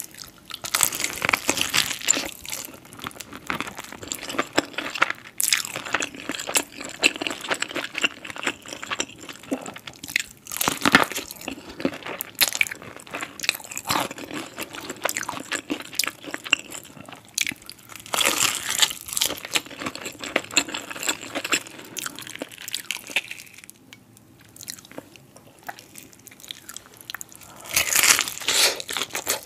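Close-miked crunching and chewing of crispy fried chicken dipped in cheese sauce. Bites into the crunchy coating crackle repeatedly. The crunching eases off for a few seconds near the end before a fresh loud bite.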